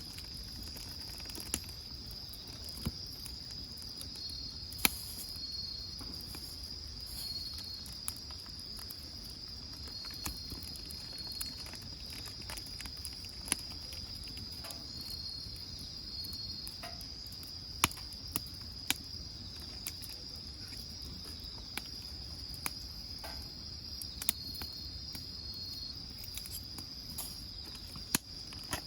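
Crickets or similar insects trilling steadily at a high pitch, with a second insect chirping on and off, and a scattering of sharp pops and crackles from a wood fire burning in a grill.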